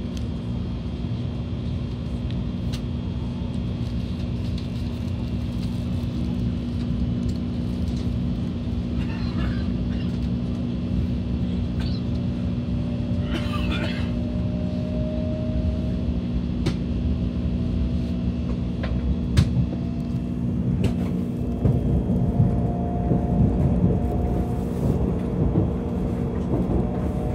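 Cabin noise of a Kyushu Shinkansen train pulling out: a steady low rumble and hum of the moving train, with a faint whine from the motors that rises a little under halfway through and again later as it gathers speed.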